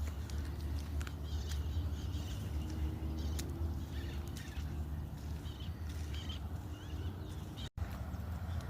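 Small birds chirping in short calls over a steady low rumble, with scattered faint clicks; the sound drops out for an instant near the end.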